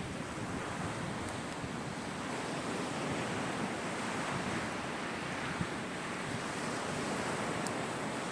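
Sea waves breaking and washing ashore as a steady rushing surf, with wind on the microphone and a few faint high ticks.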